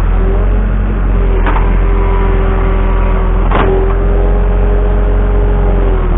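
Skid steer engine running steadily with a held whine over it, and two sharp knocks, about one and a half and three and a half seconds in.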